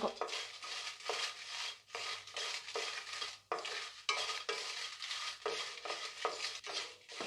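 A spatula stirring and scraping cashews and dried red chillies as they dry-roast in a hot kadai without oil, in repeated strokes about twice a second.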